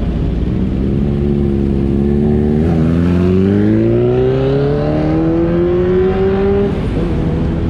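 Motorcycle engine accelerating: its pitch climbs steadily for about four seconds, then drops sharply near the end at a gear change.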